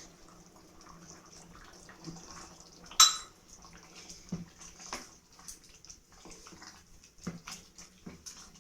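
A metal spoon knocking and scraping in a cooking pot as the biryani rice is stirred: one sharp clank about three seconds in, then a few lighter knocks, over a faint steady hiss.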